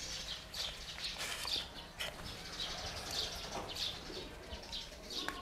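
Faint, repeated chirping of small birds, with a light click about two seconds in.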